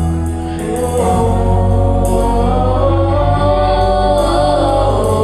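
Live gospel worship music: a band with sustained bass and keyboard tones and cymbal swells, with wordless singing coming in about a second in.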